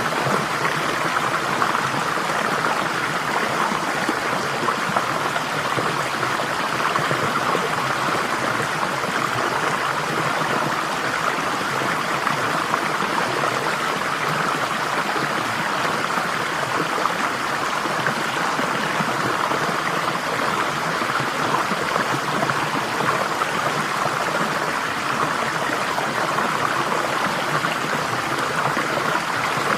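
Flowing water, a stream running steadily over stones, an even rushing and burbling without pause.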